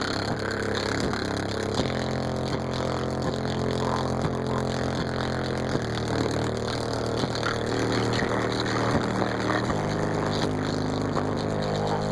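Bass-heavy music played through a car's four Fi BL 15-inch subwoofers, with held low notes that change pitch a few times.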